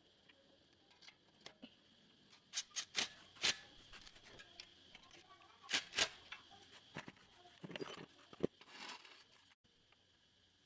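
A scattering of sharp clicks and knocks, like small metal parts or hand tools being handled, the loudest coming in two close pairs, one a few seconds in and one around the middle.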